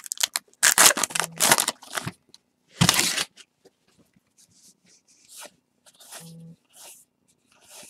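Baseball card pack wrapper being torn open with crinkling and rustling, and cards being handled. The loudest tearing comes in the first two seconds and again at about three seconds, followed by lighter rustles.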